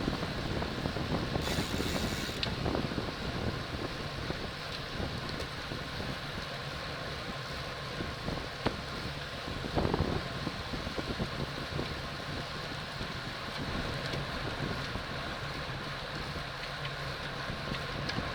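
Wind rushing over the microphone of a camera riding along on a racing bicycle, with steady tyre and road noise. A brief high hiss comes about a second and a half in, and a short louder gust near the middle.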